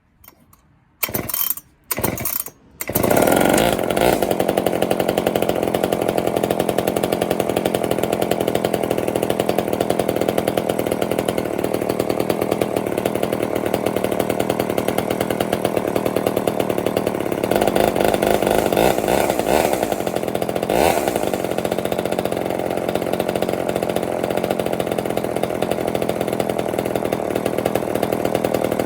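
Poulan 245/306 two-stroke chainsaw engine, freshly fitted with adjusted ignition points, being pull-started. It gives two short spurts, catches about three seconds in and runs steadily, revving up a few times about two-thirds of the way through.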